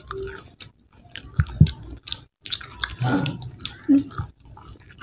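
People chewing and biting crispy fried chicken: many small wet mouth clicks, a few brief hums, and two low thumps about a second and a half in.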